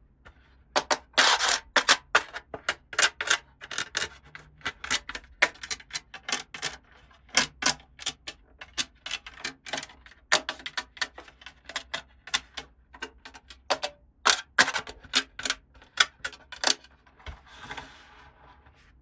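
Small plastic toy pieces clicking and tapping as they are handled and set down, in quick irregular runs, with a softer rustle near the end.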